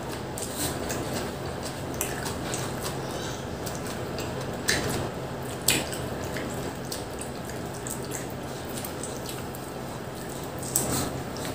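Close-up eating sounds of people chewing and biting pizza: wet mouth and lip smacks with a few sharper clicks of bites. A steady low hum runs underneath.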